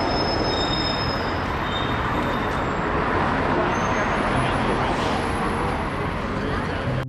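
Steady traffic-like noise, an even hiss over a low rumble with a few faint high tones, cutting off suddenly near the end.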